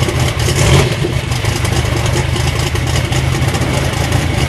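Twin-turbo Moran engine of a 1963 Corvette drag car idling loudly, with a steady, rapid low pulsing.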